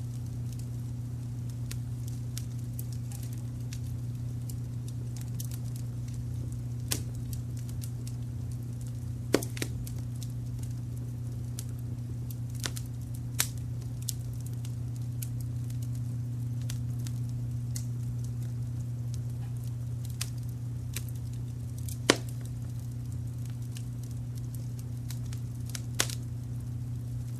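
Wood fire crackling, with scattered sharp pops, the loudest about a third of the way in and again near 22 and 26 seconds. Underneath runs a steady low brown-noise rumble.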